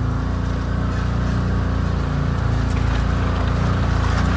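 Can-Am side-by-side's engine running steadily while driving, growing a little louder near the end.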